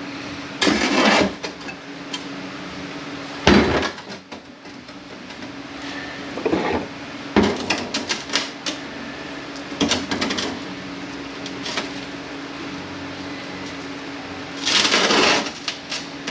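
Metal transmission parts and hand tools knocking and clattering during the teardown of a Kia A6LF2 automatic transmission, around the differential. A string of separate knocks and short clatters, the sharpest about three and a half seconds in and a longer rattle near the end.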